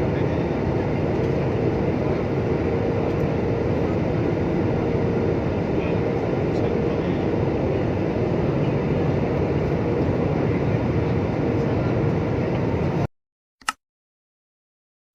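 Steady rumble of jet airliner cabin noise, from the engines and air system, cutting off abruptly about thirteen seconds in, followed by a single click.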